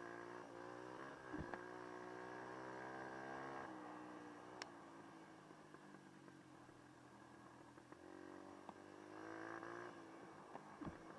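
Dirt bike engine running at a steady pitch, easing off about four seconds in and picking up again near the end, with a couple of sharp knocks.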